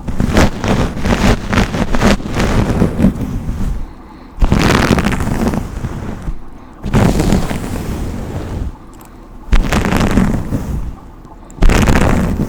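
A hairbrush drawn through hair right at the microphone in long strokes, five in a row, each one to three seconds long with short pauses between.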